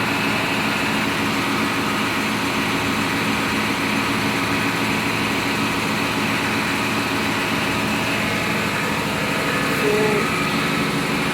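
Steady drone of a running diesel generator set in a tug's engine room, a constant machinery hum with several even low tones.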